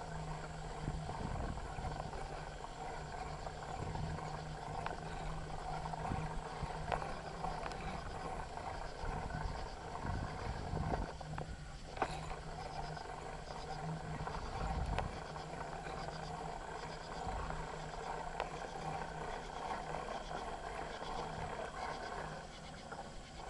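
Bicycle ridden along a trail, heard from a handlebar-mounted camera: continuous rumble and rattle from the bike, with an occasional knock as it goes over bumps.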